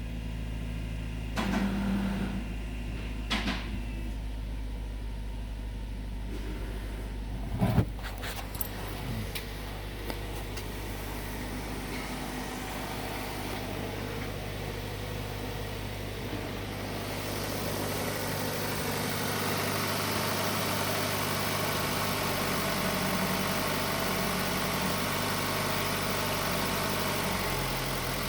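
2012 Kia Optima's 2.4-litre four-cylinder engine idling steadily. A few clunks come in the first eight seconds, the loudest about eight seconds in. From about seventeen seconds in, a hiss joins over the idle.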